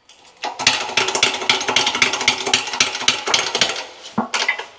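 Pneumatic tool hammering rapidly on a wheel bearing press tool in one sustained run, starting about half a second in and stopping near the end, followed by a brief second burst.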